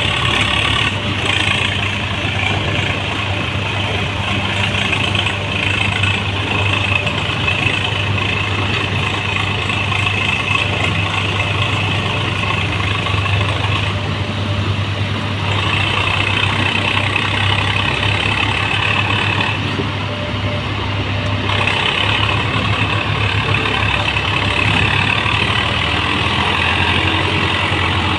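Tractor diesel engines running hard with a steady deep drone, easing off slightly now and then, as in a pulling-power test between tractors.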